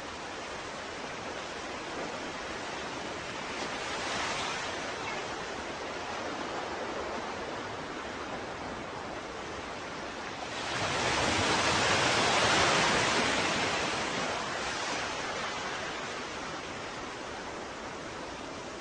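Ocean waves washing in with a steady hiss of surf: a small swell about four seconds in, then a bigger wave breaks about ten seconds in, swells for a few seconds and washes back out.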